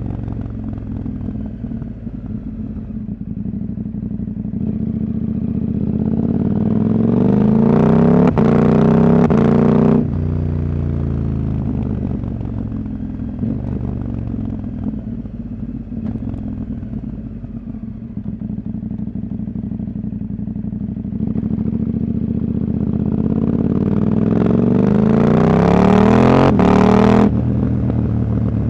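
Husqvarna Norden 901's parallel-twin engine, with its catalytic converter removed, running on the move. Twice it pulls with rising pitch and loudness, then the throttle snaps shut suddenly and the revs fall away.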